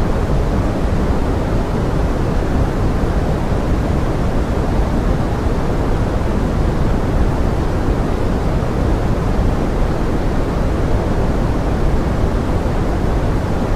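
Steady pink noise: an even, unbroken hiss, heaviest in the low end and thinning toward the top.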